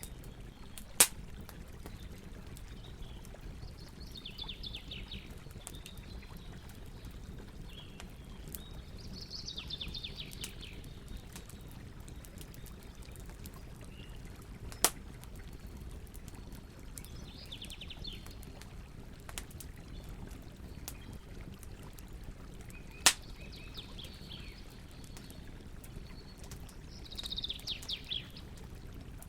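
Campfire burning with a steady low hiss, broken by three sharp pops: about a second in, near the middle and about two-thirds through. Birds sing around it, about five short phrases of quick repeated high notes.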